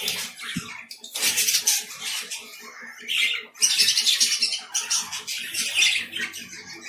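Pet lovebirds calling, a run of harsh, raspy squawks coming every second or so.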